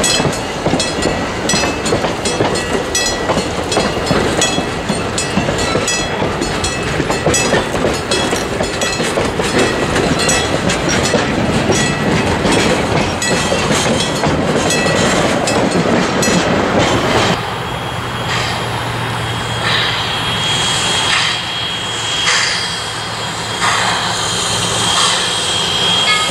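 Railroad passenger cars and a wooden caboose rolling past close by, wheels clicking over the rail joints with some wheel squeal. About two-thirds of the way through the sound changes abruptly to a quieter steam tank locomotive working toward the listener, its exhaust chuffing about once a second.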